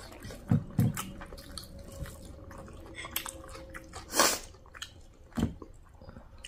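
Close-up chewing and biting of spicy chicken wings by two people, with wet mouth sounds and scattered small clicks and soft knocks. A short, louder noise comes about four seconds in.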